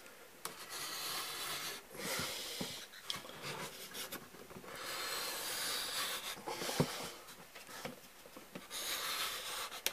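A Cavan balsa stripper's blade scraping along a sheet of balsa wood in several long pulls, slicing off a 1/4 inch strip.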